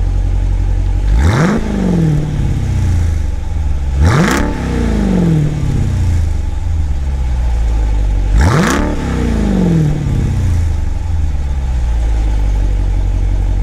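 2017 Jeep Grand Cherokee SRT's 6.4-litre HEMI V8 idling through an exhaust with the mid-muffler deleted and replaced by a 3-inch X-pipe. It is blipped three times, about a second, four seconds and eight and a half seconds in, each rev shooting up sharply and settling back to idle over a second or so.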